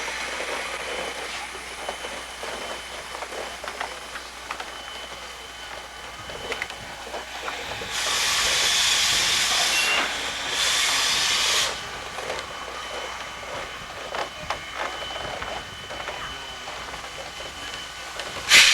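Steam locomotive venting steam: two loud hissing blasts about eight and ten and a half seconds in, each one to two seconds long, over a quieter background of hiss and small clanks, with another loud hiss starting right at the end.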